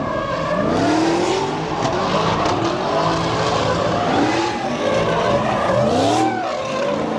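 Car doing donuts: the engine revs up and down over and over, about once a second, over the hiss and squeal of spinning tires.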